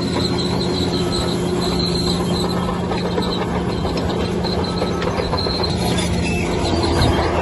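Bulldozer's diesel engine running steadily, with a high metallic squeal coming and going from its steel tracks.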